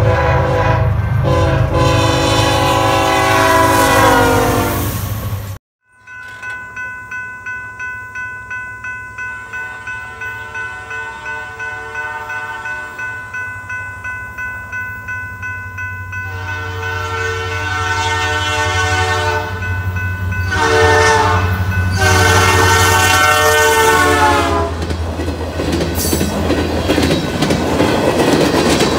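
Diesel locomotive horn sounding a long blast. After a cut, a railroad grade-crossing bell dings about twice a second while the locomotive's horn blows twice more and its engine hum builds. From about 25 seconds in, the empty wind turbine train rolls over the crossing with loud wheel rumble and clatter.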